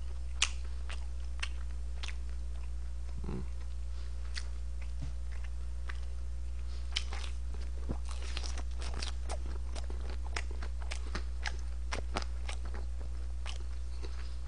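Close-up chewing and biting of a crisp pan-fried dumpling: a run of irregular crunches and wet clicks, thickest in the second half, over a steady low hum.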